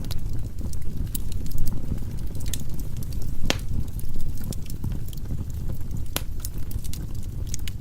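Firewood burning in a fireplace: a steady low rumble of the fire with scattered sharp crackles and pops, two louder pops about three and a half and six seconds in.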